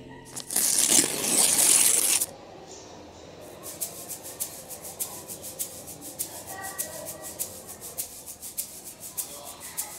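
A loud rushing, scraping hiss lasting about two seconds and cutting off sharply, then a steady run of quick, quiet clicks, several a second.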